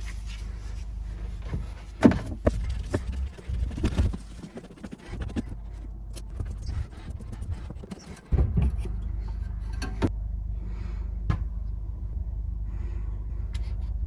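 High-pressure drain-cleaning equipment running with a steady low hum while clearing a clogged drain pipe, with scattered knocks in the first few seconds. The hum dips briefly about eight seconds in and comes back steadier.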